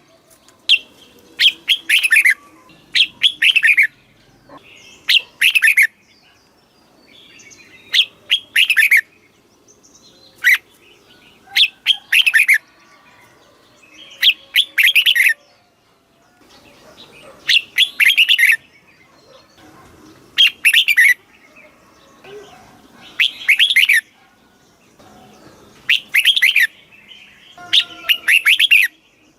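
A red-whiskered bulbul singing short, bubbly phrases of quick notes, about one every two to three seconds, with brief pauses between them.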